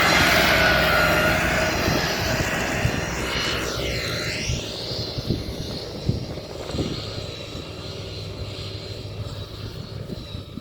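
A motor engine passing close by, loudest at first, sweeping past about four seconds in, then fading away.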